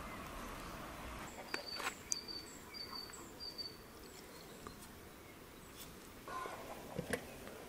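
Steady open-air background hiss with a small bird chirping four short high notes about two seconds in, and a few sharp clicks or knocks, two more near the end.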